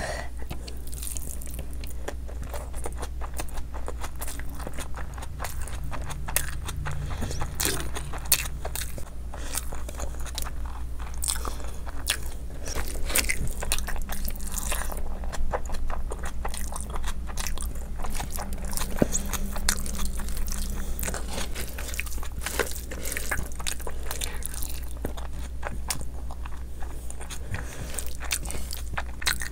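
Close-up chewing of mouthfuls of chicken biryani eaten by hand: many small, irregular mouth clicks, over a steady low hum.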